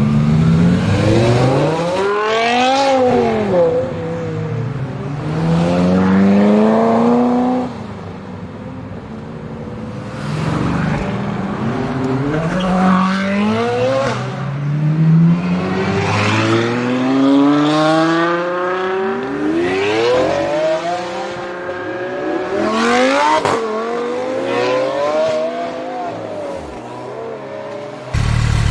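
High-performance car engines accelerating hard, the pitch climbing and then dropping at each gear change, over and over.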